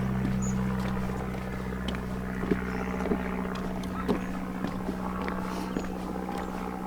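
Footsteps knocking on a wooden boardwalk, roughly one to two a second, over a steady low hum.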